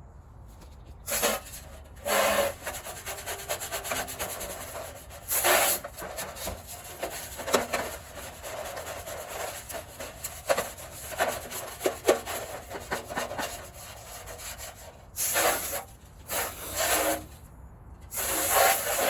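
Scrubbing and scraping strokes on an old charcoal grill as it is cleaned, coming in irregular bursts with short pauses between them.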